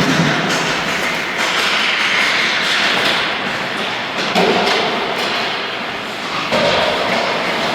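Echoing game noise from a youth team scrimmage in a large hall: a steady rumbling wash of sound with scattered thuds and knocks from the play.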